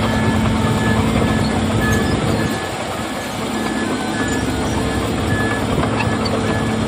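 Heavy diesel earthmoving machinery running steadily under a reversing alarm beeping about twice a second.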